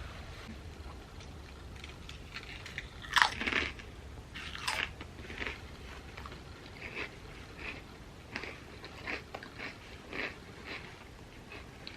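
Crisp chips being bitten into close to the microphone, with a loud crunch about three seconds in and another just before five seconds. After that comes steady crunchy chewing, roughly one crunch every two-thirds of a second.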